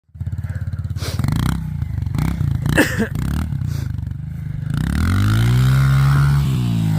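Dirt bike engine running, revving up about five seconds in, holding high, then easing off near the end. A few sharp clattering knocks sound about one and three seconds in.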